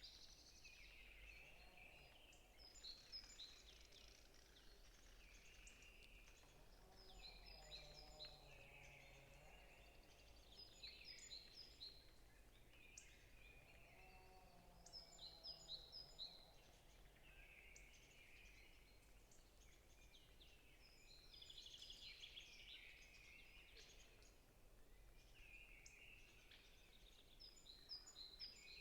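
Faint forest birdsong: one bird repeats a short song of quick, falling high notes every few seconds while others chirp softly between, over a low steady rumble.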